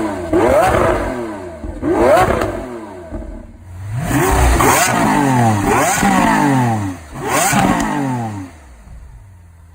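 Lamborghini Aventador's V12 engine being revved in a series of sharp throttle blips, each one rising quickly in pitch and falling back, then settling to a steady idle near the end.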